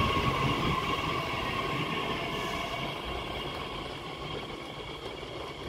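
Passenger train rolling slowly along a station platform: the running noise of its wheels on the rails, with a thin steady high whine, gradually fading away.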